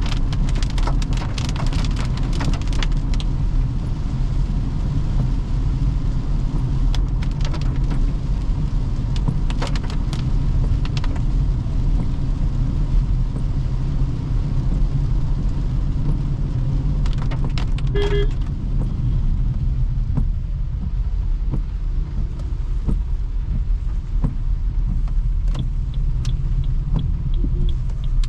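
Toyota Hyryder hybrid driving on a wet road: a steady low road-and-tyre rumble with scattered ticks and clicks throughout. A short beep sounds once, about eighteen seconds in.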